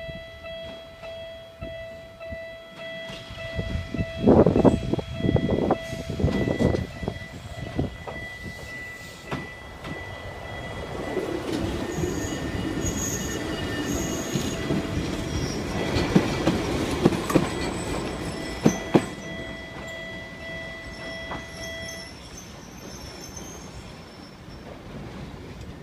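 Eizan Electric Railway electric train passing close by, its running rumble swelling and its wheels clicking sharply over the rail joints. A level crossing alarm rings steadily throughout and cuts off about 22 seconds in, as the crossing clears.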